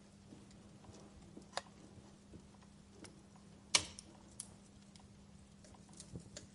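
Wood fire crackling: sparse, sharp pops and snaps at irregular intervals, the loudest a little past halfway, over a faint steady hum.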